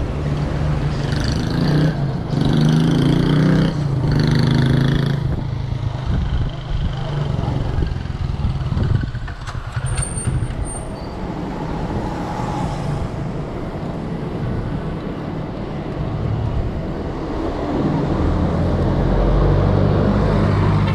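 Road traffic passing: motor vehicle engines going by, with an engine drone loudest in the first few seconds and a low rumble again near the end.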